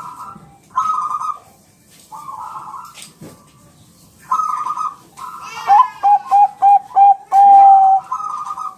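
Bangkok-type zebra doves (perkutut) singing: several short warbling coo phrases. About six seconds in comes a run of five quick staccato coos, ending in one long held note that is the loudest part.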